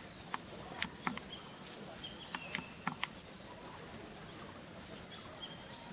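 Insects shrilling steadily in one unbroken high-pitched tone. A handful of sharp clicks fall in the first three seconds.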